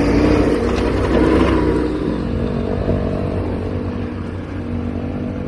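Motorcycle engine running steadily under way, its tone holding fairly even and the level easing slightly in the second half.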